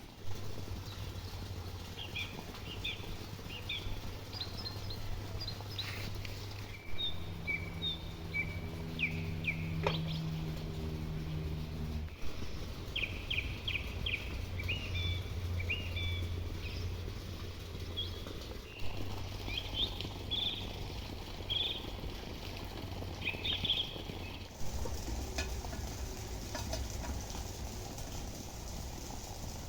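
Small birds chirping repeatedly in short, quick notes, over a low steady hum.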